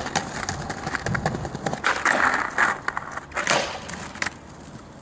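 Skateboard rolling and clacking, with the metal trucks scraping along in a grind from about two seconds in to nearly three seconds. A few sharp knocks follow, then quieter wheel noise.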